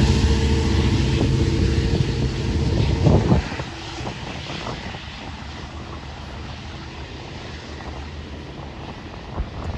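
Long Island Rail Road train passing close by with a loud, low, steady drone, which drops off sharply about three and a half seconds in as the train clears. After that a softer rumble and wind noise remain.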